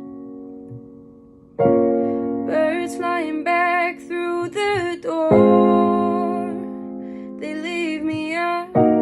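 Slow song: piano chords struck three times and left to ring, with a voice singing a wavering melody over them in two phrases.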